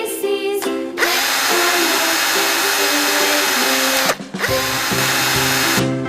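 Small electric drill motor whirring twice: it spins up with a rising whine about a second in, stops briefly near four seconds, then spins up and runs again until just before the end, over children's background music.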